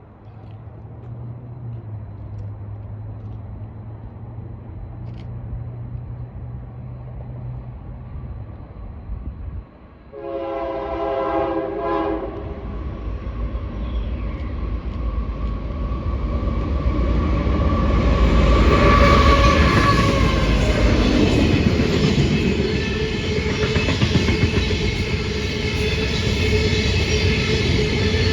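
Union Pacific diesel freight train approaching with a low engine hum, then one horn blast of about two and a half seconds at roughly ten seconds in. The locomotives and cars then rumble past on the rails, growing steadily louder.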